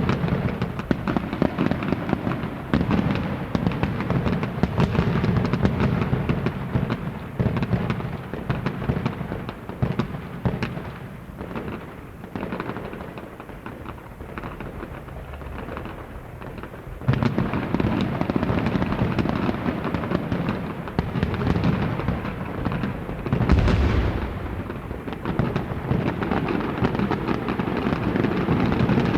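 A recorded sound effect of dense, continuous crackling and popping, thinning out for a few seconds mid-way and then picking up again, with one deep boom a little past two-thirds of the way through.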